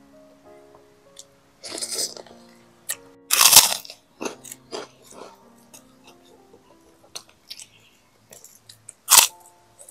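A person biting and chewing crunchy food with loud open-mouthed crunches, clustered in the first half and again near the end, the loudest about three and a half seconds in. Soft background music with simple sustained notes plays underneath.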